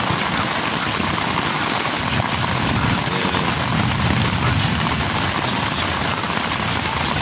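Heavy rain drumming steadily on a tent.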